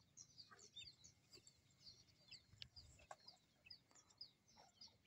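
Faint, rapid chirping of birds: many short, high notes that each slide downward, several a second, with a couple of soft clicks about halfway through.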